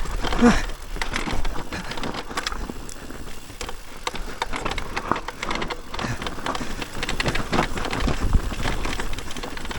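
Electric mountain bike rattling and clattering over rough trail, with tyres rolling on dirt and wind buffeting the microphone. There are many irregular knocks throughout.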